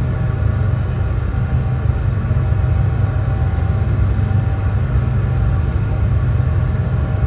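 Brown noise: a steady, unchanging deep rush with most of its weight in the low bass and little treble.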